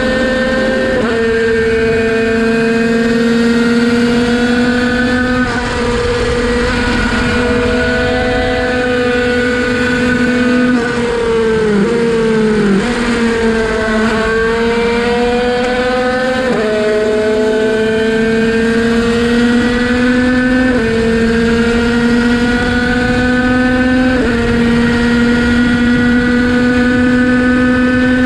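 Derbi 50cc two-stroke single racing engine held at high revs under full throttle. Its pitch climbs slowly and drops a step at each quickshifted upshift. Around the middle the revs dip and climb again through a corner.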